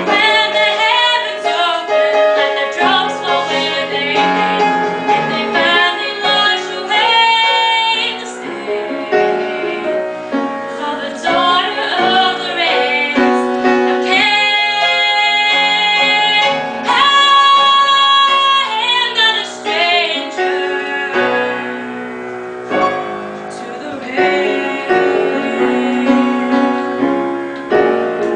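A woman singing with piano accompaniment, her voice holding long notes.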